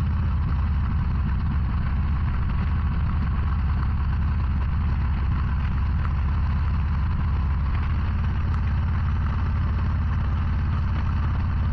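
Harley-Davidson Low Rider ST's Milwaukee-Eight 117 V-twin running at a steady cruising speed, with a steady hiss of wind and road noise above the low engine note.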